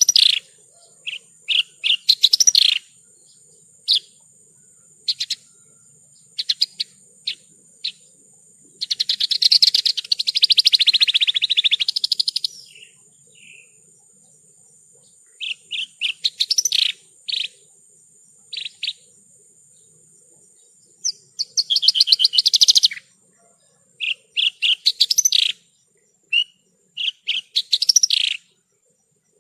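Javan bush lark (branjangan) singing: quick series of short high chirps, broken twice by a fast trill lasting a few seconds, about nine seconds in and again about twenty-one seconds in.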